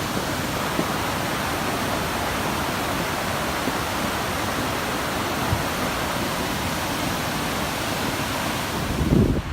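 Floodwater rushing steadily down a swollen mountain creek, carrying boulders along its bed. Near the end, a louder low buffeting of wind on the microphone cuts in.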